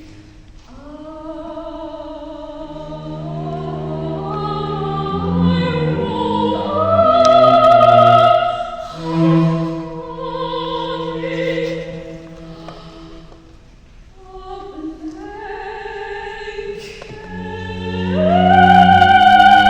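Classical-style operatic singing, long held notes with vibrato over sustained low string tones, swelling loudest about eight seconds in and again near the end.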